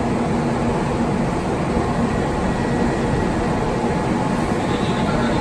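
Steady noise of an N700 series Shinkansen train at the platform, mostly low-pitched with a faint high tone running through it.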